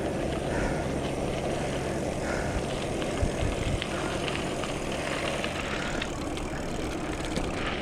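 Steady rumble of wind buffeting the microphone, mixed with mountain-bike tyres rolling on a dirt road while riding.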